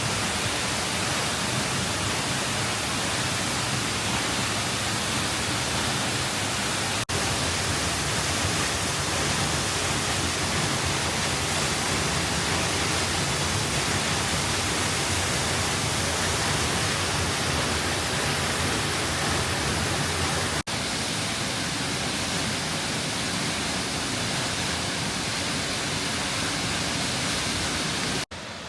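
Waterfall crashing steadily, heard close by from the path behind the falls as a constant rushing noise, broken by two brief dropouts about seven and twenty-one seconds in.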